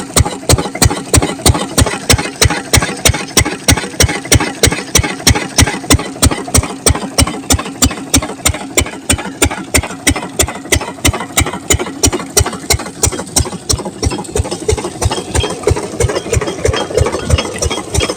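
Single-cylinder 8 hp diesel engine of an irrigation water pumpset running steadily, with an even, loud exhaust beat of about three strokes a second.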